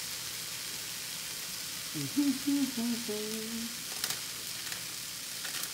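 Shaved beef and onions sizzling steadily on an electric griddle, with a couple of light clicks near the end.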